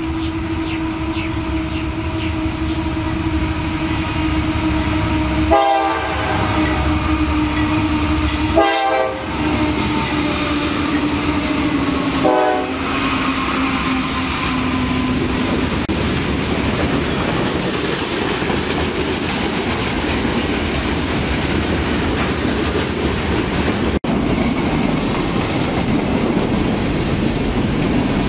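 A CSX diesel freight train passing close. Its horn sounds as a steady chord that slowly drops in pitch while the locomotives approach and go by, over the diesel engines. About halfway through, the horn gives way to the steady rumble and clickety-clack of freight car wheels rolling over the rail joints.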